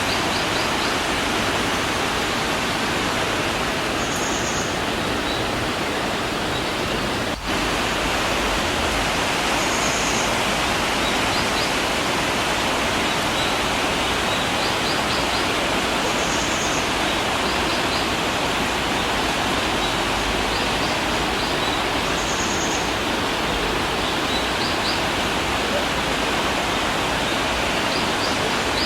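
Mountain river water rushing over rocks, a steady even rush. Faint high chirps recur about every six seconds, and the sound drops out for an instant about seven seconds in.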